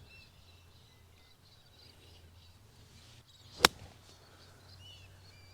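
A single sharp crack of a golf club striking a ball, about two thirds of the way in, over birds chirping.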